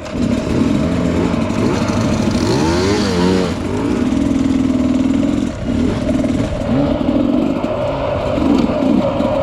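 Bike being ridden along a trail: a steady running drone that wavers up and down in pitch, over rough rattling and clatter.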